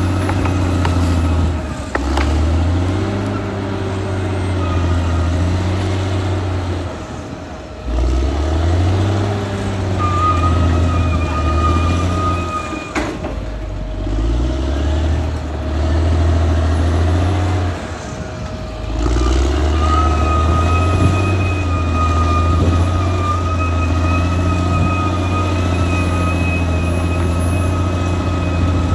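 Caterpillar D6R XL bulldozer's diesel engine working under load, its note dropping and picking up again every five or six seconds as it pushes and backs. A high thin whine sounds with it at times, most clearly in the second half.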